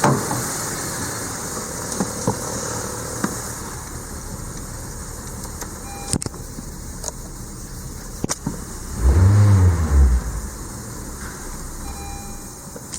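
Honda Vezel's L15B 1.5-litre four-cylinder petrol engine running at idle, revved once briefly about nine seconds in, rising and falling back to idle. A couple of sharp clicks come a few seconds before the rev.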